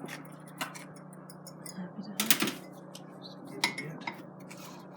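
A few separate sharp clicks and clinks of small hard objects being handled, the loudest about two seconds in, over a steady low hum.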